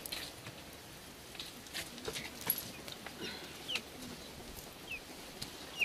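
Short, high bird chirps, about one a second, over faint background noise, with scattered soft clicks.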